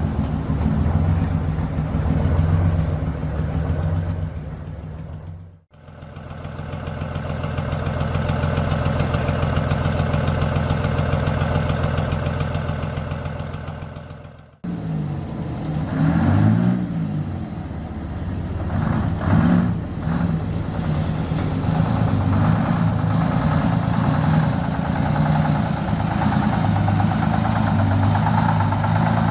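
Detroit Diesel truck engines running, in three clips. First an idle, then a steady run that fades in and out, then an idle with a couple of quick revs past the middle.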